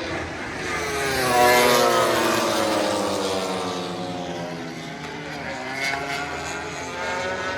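MotoGP race motorcycle passing at speed. Its engine note is loudest about a second and a half in, then drops in pitch as it goes away, and another bike's engine is heard approaching near the end.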